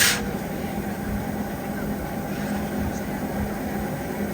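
Train running along the track, a steady rumble heard from on board, with a brief louder burst of noise right at the start.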